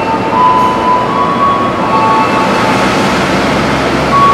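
Passenger train rolling slowly alongside the platform: a loud steady rumble, with thin squealing tones that hold for a moment and then jump to a new pitch.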